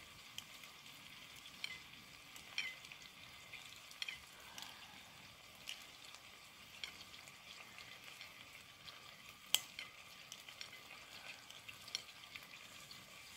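Curry faintly sizzling as it fries in a pot on a camp stove, with scattered sharp clicks and pops and one louder click about nine and a half seconds in.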